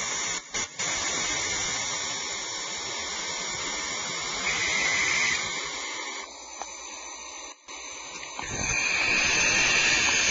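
Barn owls screeching: harsh, hissing screams, a short one about halfway through and a longer one near the end.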